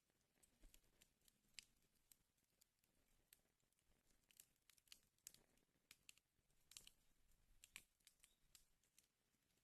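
Wood fire burning in a fireplace, crackling faintly with irregular small pops and snaps, a couple of sharper ones a little past the middle.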